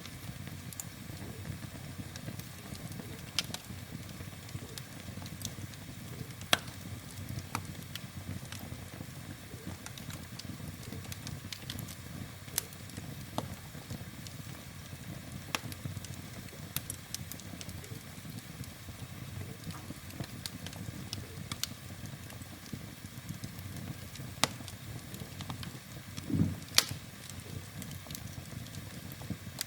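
Wood fire burning in a fireplace: a steady low rumble of flames with scattered sharp crackles and pops from the burning logs. Near the end comes a louder low thump, then a sharp pop.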